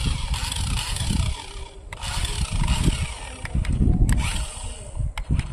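Radio-controlled monster trucks running, their motors and gears whining and rising and falling in pitch in repeated bursts over a heavy low rumble, with a few sharp clicks about four seconds in.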